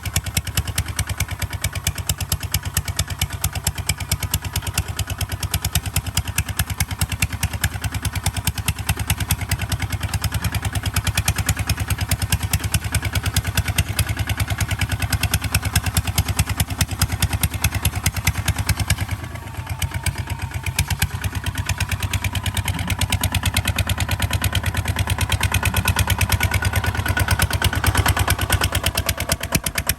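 Kubota ZT155 DI single-cylinder diesel engine on a hand tractor, running steadily with a fast, even firing beat. The level dips briefly about two-thirds of the way through.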